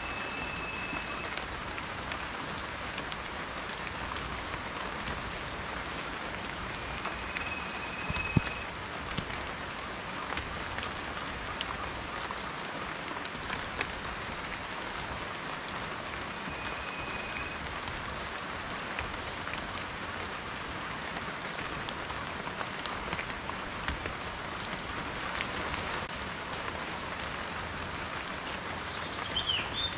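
Steady rain falling: an even hiss with individual drops tapping sharply here and there, one louder tap about eight seconds in. Three short, steady high whistles and a quick chirp near the end sound faintly over the rain.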